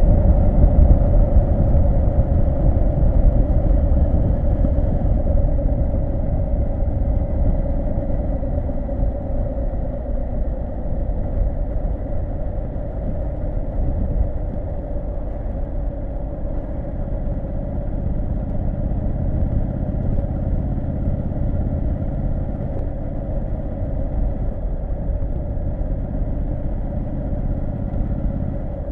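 Triumph Street Scrambler 900's 900 cc parallel-twin engine running steadily under way, its level easing a little over the first ten seconds and then holding even.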